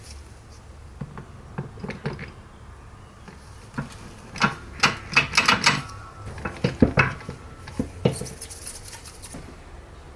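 Metal parts clinking and knocking as they are handled, in a run of sharp clicks that is busiest in the middle, with a short hiss near the end.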